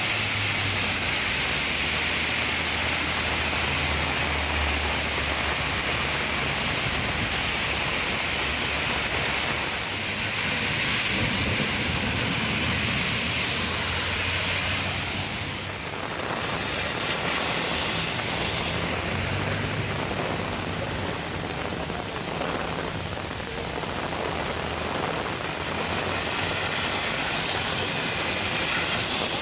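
Heavy rain pouring down steadily onto a flooded street, with passing cars' tyres hissing and splashing through deep standing water.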